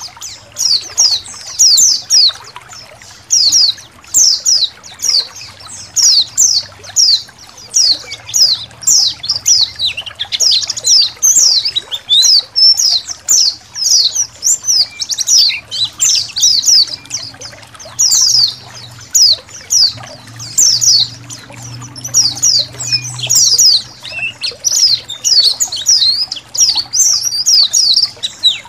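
A flock of white-eyes (pleci) chirping together: many quick, high, falling notes overlapping without a break, over a faint trickle of water and a low hum.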